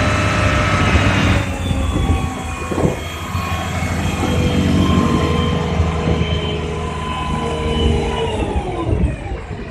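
Nissan UD CWE 280 concrete mixer truck's diesel engine running at raised revs, with a steady whine over it, while the drum discharges concrete. The pitch falls about eight seconds in as the revs drop.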